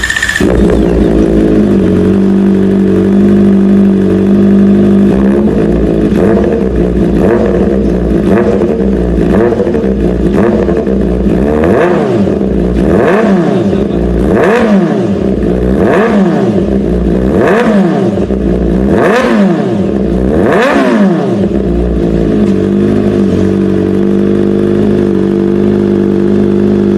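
Kawasaki ZX-4RR inline-four with an Arrow aftermarket exhaust, idling steadily and then revved in about a dozen quick throttle blips, each rising sharply and falling back, before settling to idle again for the last few seconds.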